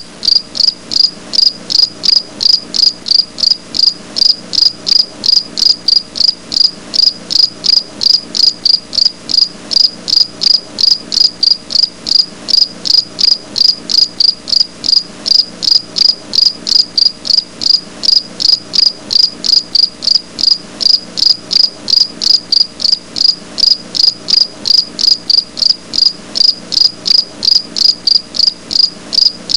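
A singing insect chirping in a steady, even rhythm, about three high-pitched chirps a second.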